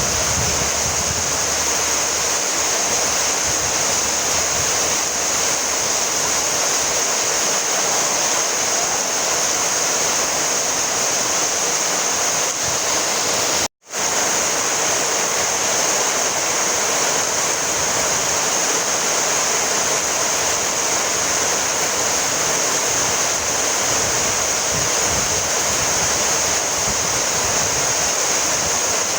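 Steady rain, an even, unbroken hiss that is strongest high up. It cuts out to silence for a split second about halfway through.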